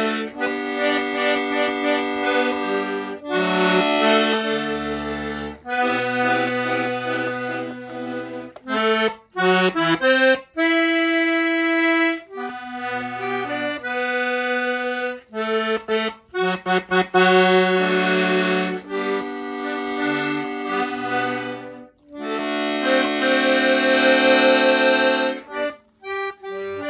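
Accordion playing a tune: held chords over separate bass notes, broken by short choppy staccato passages about a third of the way in, again past the middle, and near the end.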